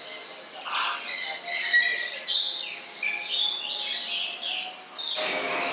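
Small birds chirping and calling in quick, short, sliding notes. Near the end a louder steady rushing noise cuts in suddenly.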